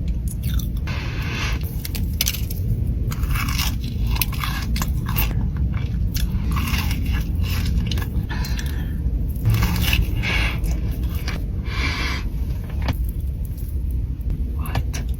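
Close-miked chewing and crunching of food, in irregular crisp bites and chews over a steady low rumble.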